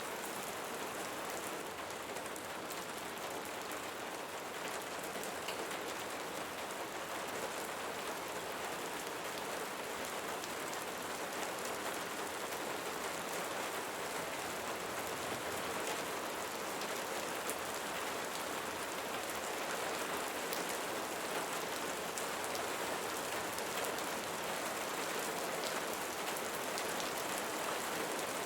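Steady rainfall, with a dense patter of drops falling on surfaces.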